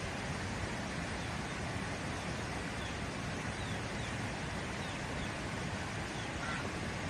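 Steady rushing noise with a few faint, short high chirps, like small birds, in the middle.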